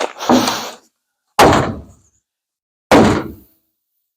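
Three heavy blows struck on the pinched front fender sheet metal of a 1950 Ford F1 to straighten it, each a dull thunk, about a second and a half apart.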